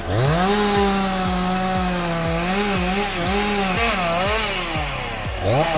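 Chainsaw engine revving up to full throttle and cutting. Its pitch holds steady, then wavers and sags as the chain loads in the wood, drops briefly near the end and revs up again.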